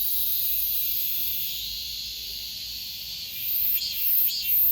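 Cicadas singing in a steady high buzz; about three and a half seconds in, a louder call starts pulsing roughly twice a second.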